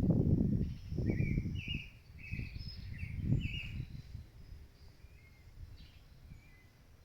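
A bird calling a quick run of short, clear notes, fainter and sparser toward the end. In the first few seconds, irregular low rumbling gusts of wind buffet the microphone.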